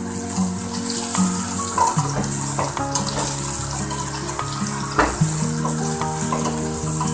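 Fried tofu and pork sizzling in a stainless steel pot as they are tossed with tongs, a steady hiss with a couple of sharp clicks of the tongs against the pot. Background music with held notes plays along.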